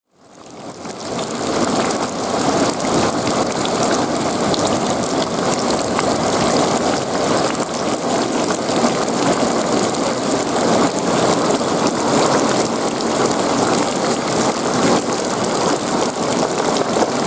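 Heavy rain pouring onto wet ground covered in running water: a steady, even hiss of drops splashing on the water surface, fading in over the first second or so.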